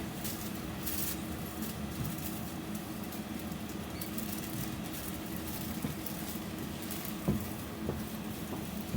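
BKM 60102 tram running between stops, heard from inside: a steady rumble and hum of the drive and the wheels on the rails, with light rattling and a few knocks about seven seconds in.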